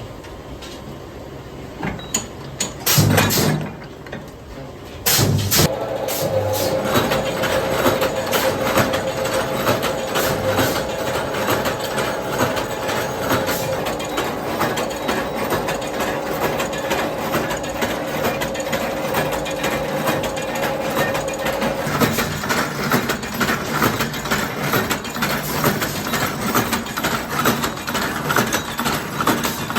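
A machine starts about five seconds in and keeps running with a steady hum and a dense, rapid clatter; the hum drops out about 22 seconds in while the clatter goes on.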